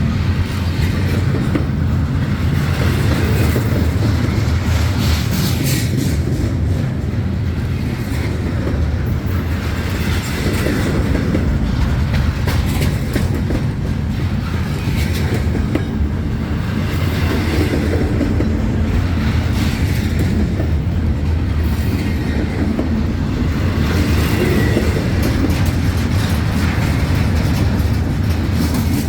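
Freight train rolling past, a steady low rumble of the cars with wheels clicking repeatedly over the rail joints.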